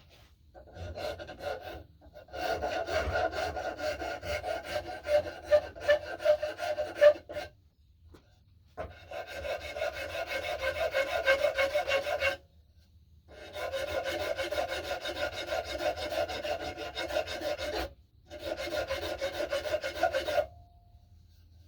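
Wood rasp scraping quickly back and forth on a wooden axe handle as the knob is shaped, a coarse rasping with a ringing pitch. It comes in four runs of several seconds each, with short pauses between.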